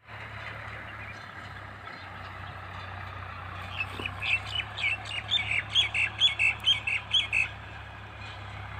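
A bird calling a rapid series of harsh, squawking notes, about four a second, starting about four seconds in and lasting some three and a half seconds, over a steady outdoor background.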